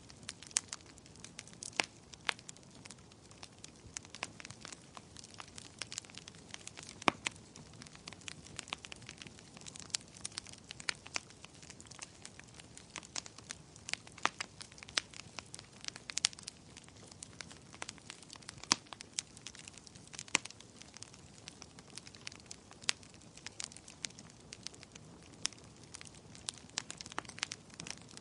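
Fireplace fire crackling: irregular sharp pops and snaps, often several a second, over a soft steady hiss.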